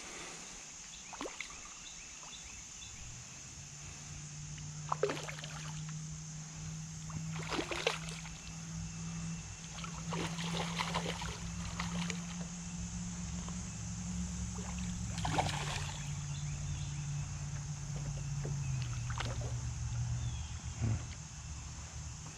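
A motor drones low and steady from about three seconds in, stepping down in pitch twice in the second half, over a constant high insect chirring. A few short splashes come from a hooked little carp being played in the water.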